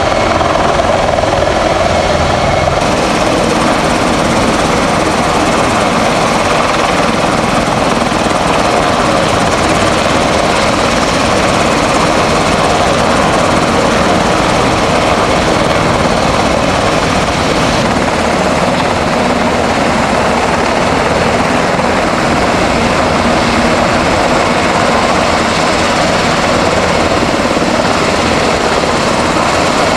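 Helicopter rotor and engine noise, loud and steady throughout.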